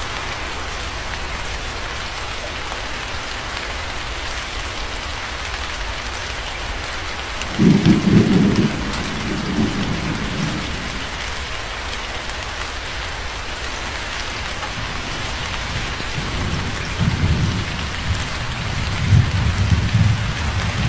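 Steady rain falling, heard as an even hiss, with thunder rumbling low twice: a loud roll about eight seconds in that fades over a couple of seconds, then a longer stretch of rolling rumbles over the last five seconds.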